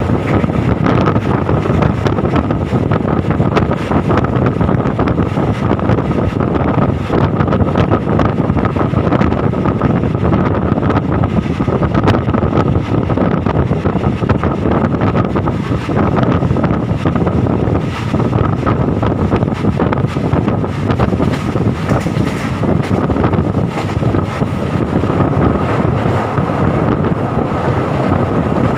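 A passenger train running on rails, heard from a carriage: steady rumble and clatter of the wheels with wind buffeting the microphone, and a thin high tone held throughout.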